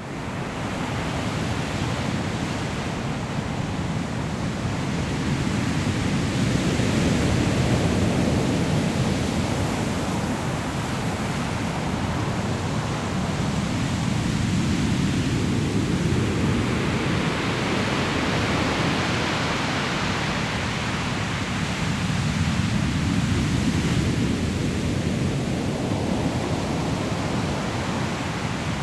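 Sea waves breaking and rolling over a pebble shore: a steady roar of surf that swells and eases every several seconds, with a brighter hiss of water washing over the stones around two-thirds of the way through.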